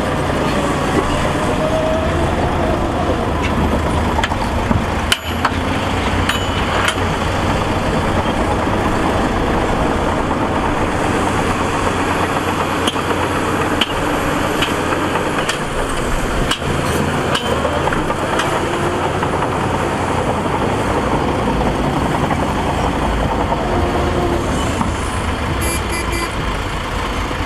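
Diesel engine of heavy earthmoving machinery running steadily, with a few sharp knocks in the middle.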